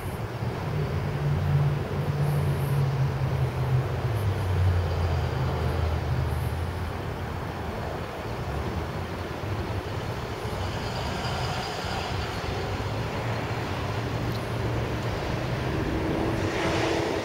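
A vehicle engine running with a low steady drone whose pitch shifts a little, over outdoor background noise.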